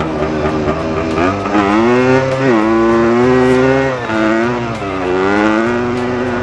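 Dirt bike engine revving and running, its pitch climbing and dropping several times as the throttle is worked.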